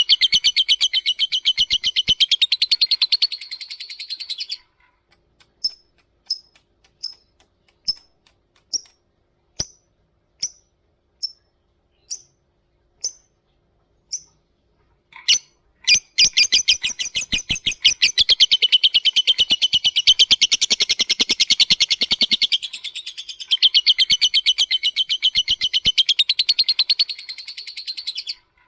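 Lovebird's long, rapid chattering trill (the 'ngekek'), high-pitched. About four seconds in it breaks into single sharp chips spaced well under a second apart, then the long fast trill starts again a little past halfway and runs until just before the end.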